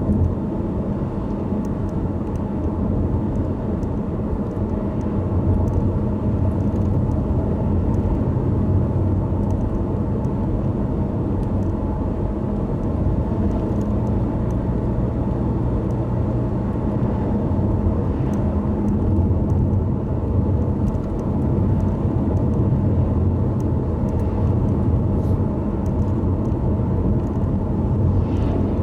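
A car driving on a wet road: a steady rumble of engine and tyres, with scattered faint ticks of rain.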